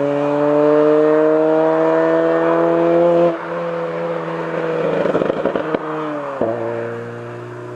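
Ford Fiesta 1.7 VCT four-cylinder petrol engine and exhaust under load, the revs rising steadily in gear. About three seconds in the throttle eases off and the exhaust crackles and pops on the overrun. Near the end the revs drop sharply and the sound fades away.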